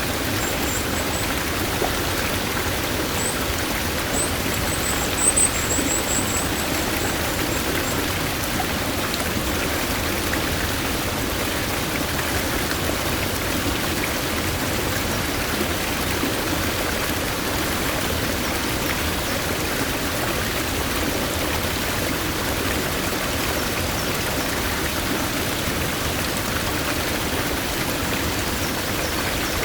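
Mountain stream water flowing steadily, a continuous rushing wash. High, thin chirping sounds over it during the first eight seconds.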